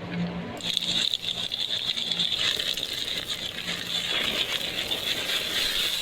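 Beef skewers sizzling and crackling over an open fire: a dense, even crackle of tiny pops that grows stronger about half a second in.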